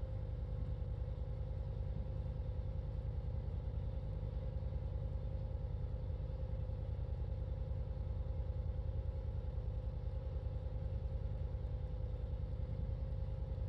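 A river vessel's diesel engine running steadily at low revs: a fast, even low throb with a steady whine above it.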